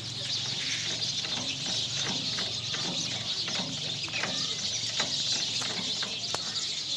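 Chickens clucking in short, scattered calls over a steady high-pitched hiss and a low hum.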